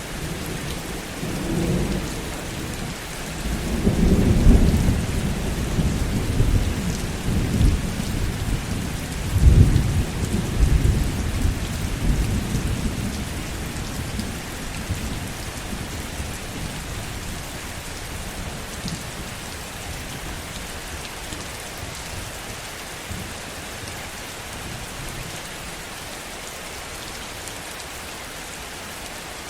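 Steady heavy rain with a long roll of thunder in the first half. The rumble swells twice, about four and ten seconds in, then dies away, leaving only the rain.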